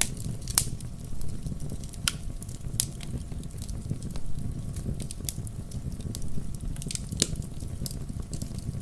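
Wood campfire crackling: irregular sharp snaps and pops, a few louder ones (about half a second in and again near the end), over a steady low rumble of the burning fire.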